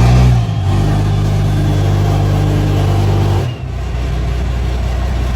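Cummins diesel pickup engine running loudly through its exhaust tip just after a start following about 30 days unused. There is a brief rev at the start, then a steady fast idle that drops to a lower idle about three and a half seconds in.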